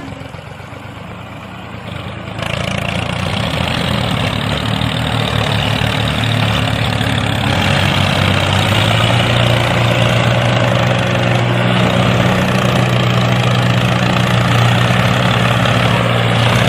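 A small engine running steadily with a low hum, getting louder about two seconds in.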